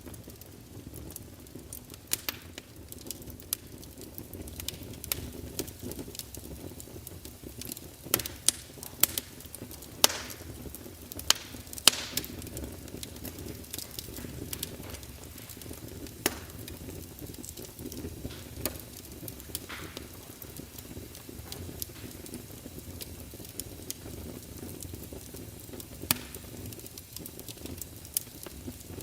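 Fire crackling: a steady low rumble with sharp pops at irregular intervals, a cluster of louder pops about a third of the way in.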